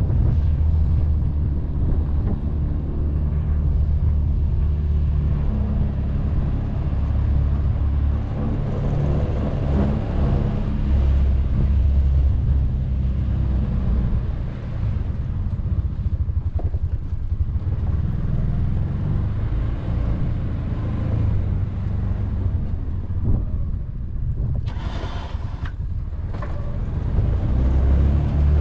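Can-Am Defender side-by-side's engine running with a steady low drone while plowing snow. Near the end there are two short bursts of higher, hissing noise.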